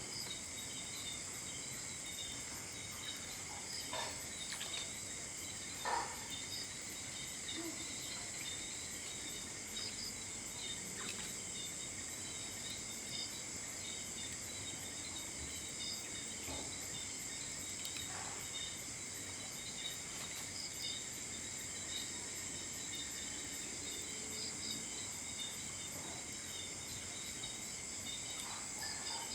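Steady high-pitched chorus of crickets and other insects, with a few faint knocks.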